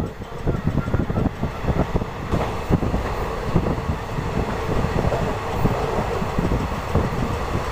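Deccan Queen express train running on the line, heard from aboard: a steady rumble of wheels on the rails with rapid, irregular rattling and clatter from the coach.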